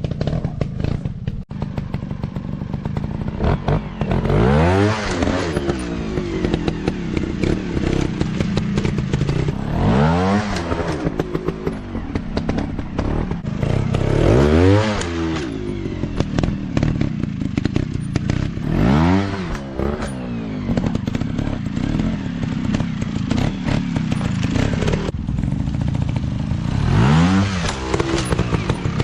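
Small dirt bike engines revving hard in repeated surges, each rising and then falling in pitch, about every four to five seconds. Many short clicks and knocks run underneath.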